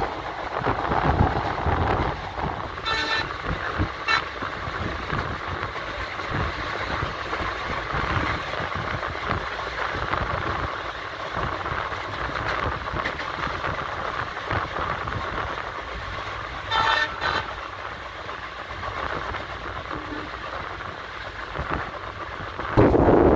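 Steady running noise of an Indian Railways train heard from a carriage window. A train horn gives short toots, twice about three seconds in and twice more about seventeen seconds in.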